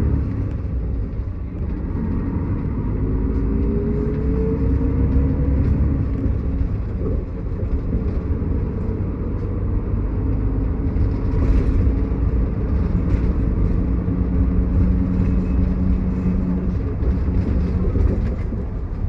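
Interior running sound of a Miyazaki Kotsu route bus under way: steady engine and drivetrain rumble, with a tone rising slowly in pitch a couple of seconds in as it gathers speed.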